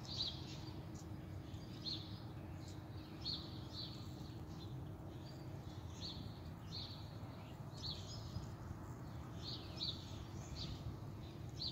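A small songbird chirping, short high chirps repeated about once a second, over a steady low background rumble.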